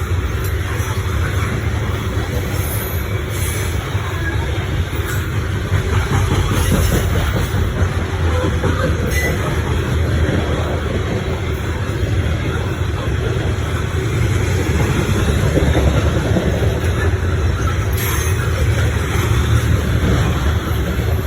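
CSX coal train rolling past, a steady loud rumble of steel wheels on the rails that keeps on without a break.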